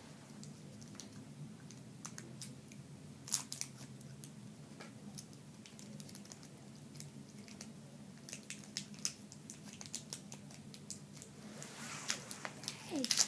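Someone eating crackers from a packaged lunch kit: scattered crisp clicks and crunches of chewing, with a busier burst of crunching and crinkling near the end.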